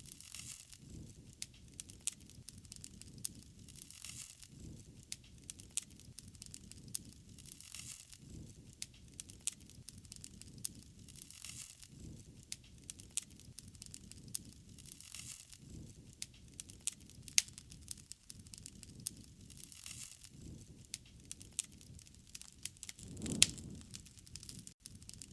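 Wood fire crackling, with many sharp pops and snaps over a low rumble of flame that swells every few seconds; one louder pop about 23 seconds in.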